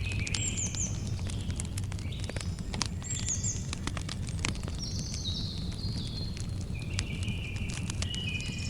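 Campfire crackling, with frequent sharp pops and snaps over a low steady rumble of the burning wood. Short high chirps and trills from crickets and birds come and go over it.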